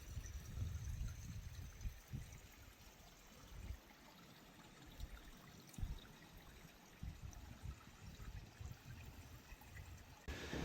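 Faint, steady running water, with uneven low rumbling underneath.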